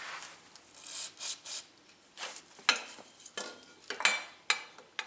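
Small metal carburetor parts clicking and scraping as they are handled and picked at while the carburetor is taken apart: a few short scrapes, then several sharp clicks over the last two seconds.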